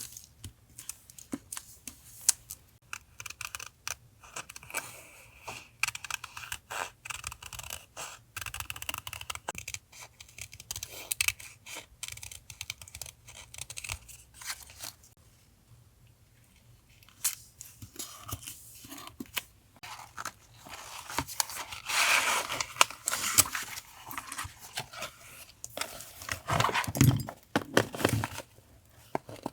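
Paper being handled for collage journaling: scattered small taps and rustles, with paper tearing and crinkling. There is a longer spell of rustling about two-thirds of the way through and another near the end.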